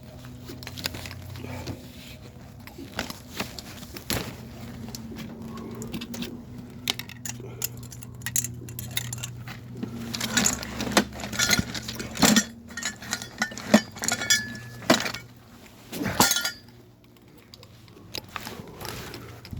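Metal hand tools and pipe fittings clinking and knocking against each other during plumbing work, many sharp clinks, thickest in the middle stretch. A steady low hum runs underneath.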